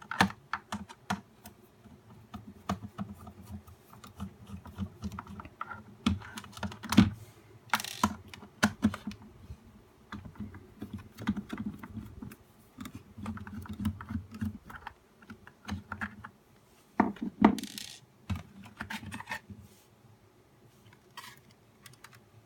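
Plastic housing and small parts of a nail dust collector clicking, tapping and knocking as it is handled and taken apart, with a few louder knocks and a brief scrape.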